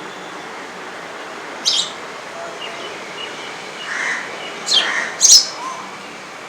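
Sparrows chirping: three short, sharp chirps, the loudest near the end, with a few softer calls between them.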